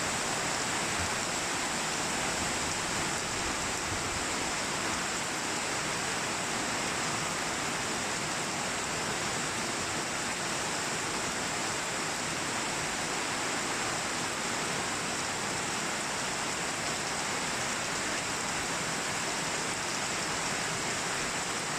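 Heavy rain pouring down steadily, an even rushing hiss that does not let up.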